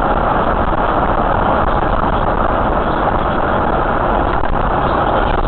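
Loud, steady noise of a moving road vehicle, engine and road noise together, with no breaks or sudden events.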